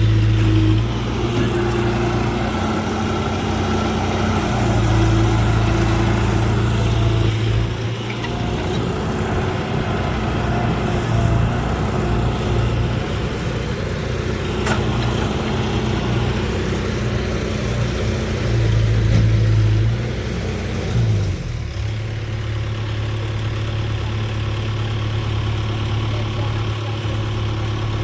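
Tractor diesel engine running, its level swelling and easing in the first twenty seconds, then settling into a steady idle about 21 seconds in.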